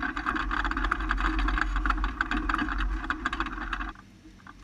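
Micro sprint race car engine running steadily with a clattery edge, then dropping away abruptly about four seconds in.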